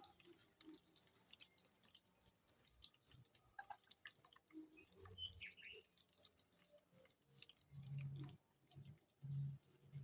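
Faint crackling and popping of onions frying in cooking oil, with a couple of soft low thumps near the end.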